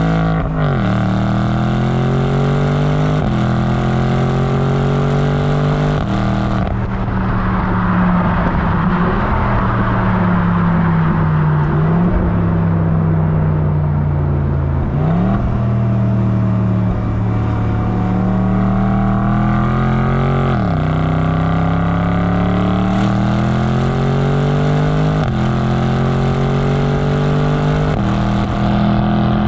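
BMW M850i's 4.4-litre twin-turbo V8 pulling hard through the gears. Its pitch climbs and then drops sharply at each upshift of the eight-speed automatic, with a steadier stretch between the runs.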